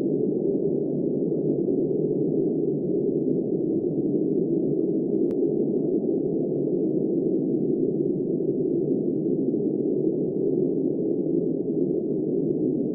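Steady, muffled blizzard wind, an even low rushing with no high sounds and no gusts or breaks.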